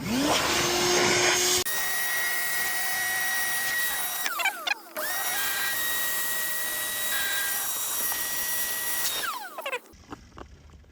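Electric air pump inflating a truck-bed air mattress. It spins up with a rising whine, then runs with a steady rushing hum, briefly drops out a little under five seconds in, and stops about a second before the end.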